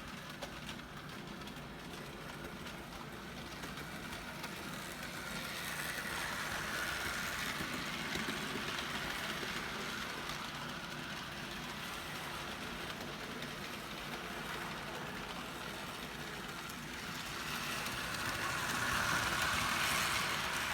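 HO scale Athearn model locomotive and cars running on the track: a steady motor hum and rolling wheel noise that grows louder twice, about a quarter of the way in and again near the end.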